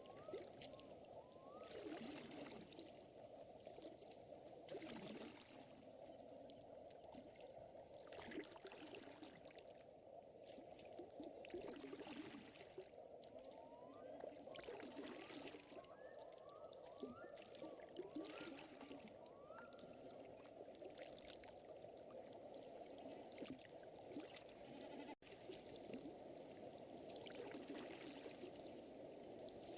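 Faint lake water lapping and trickling, with soft swells every couple of seconds. Small clusters of short, rising chirps come from a small animal.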